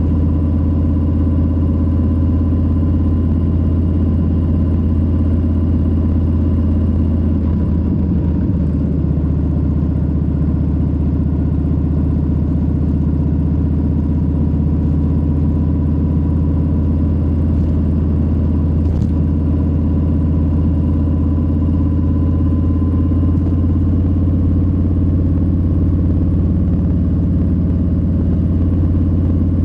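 Harley-Davidson Low Rider S's Milwaukee-Eight 117 V-twin running steadily, the bike cruising at an even speed with no big revs.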